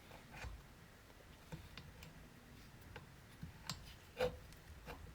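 Faint, scattered light metallic clicks and taps as a chainsaw cylinder is worked down over the piston, the piston rings squeezed in by fingers without a ring compressor. One sharper tap with a brief ring about four seconds in.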